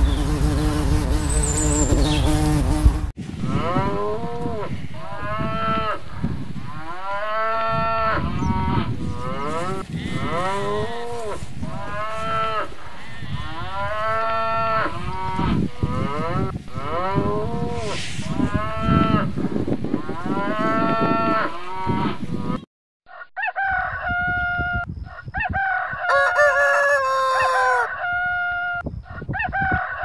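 A honeybee buzzing for the first few seconds. Then cattle mooing over and over, one long moo about every second and a half. Near the end, chickens clucking and squawking.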